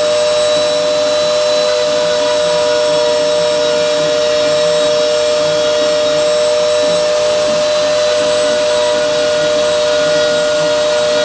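CNC router spindle running at high speed while milling, a steady high whine with a hiss of cutting noise, unchanging throughout.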